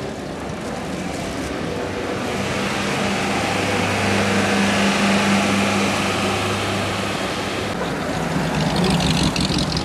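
Classic cars driving slowly past, their engines running at low revs with a steady low hum. About eight seconds in a different, deeper-bodied engine note takes over as a large American sedan rolls by, loudest just before the end.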